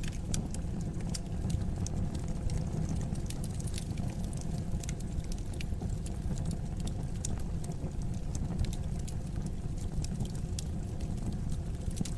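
Fireplace fire crackling: many irregular sharp pops and snaps over a steady low rumble of the flames.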